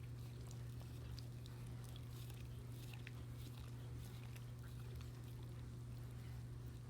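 Blue heeler chewing corn on the cob: faint, scattered crunching and clicking of teeth on the kernels and cob, over a steady low hum.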